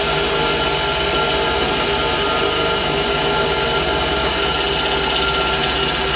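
Black & Decker No. 605 Type A 6-inch, 1/4 hp bench grinder running steadily on temporary test wiring, a constant motor hum with several steady tones from the spinning wheels.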